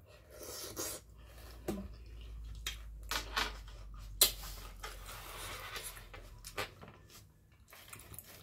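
Close-up chewing and mouth sounds of someone eating boiled squid, with scattered wet clicks and smacks; one sharp click about four seconds in is the loudest.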